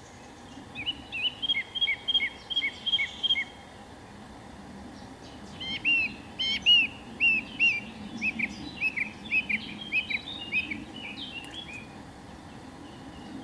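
A songbird singing two phrases of quick, repeated chirping notes, about three or four a second, with a short pause between them. The second phrase is longer and louder.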